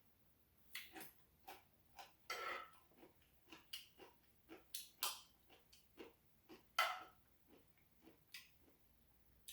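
Close-up eating sounds of a person chewing rice cake ramen: irregular wet mouth smacks, two or three a second, with a couple of longer, louder ones.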